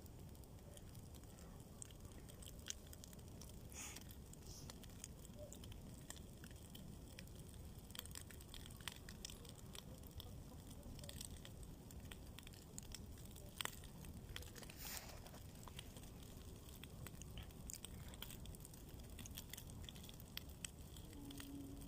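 Wood fire crackling faintly: scattered short pops and snaps at irregular intervals over a low steady background.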